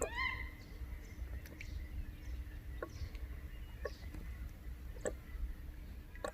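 Birds calling, with a quick run of rising and falling notes at the start, and a short knock about once a second from about halfway on.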